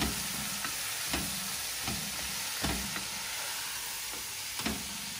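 Lentils, chopped spring onions and spices sizzling steadily in a hot pan, stirred with a wooden spatula that scrapes and knocks against the pan about once a second.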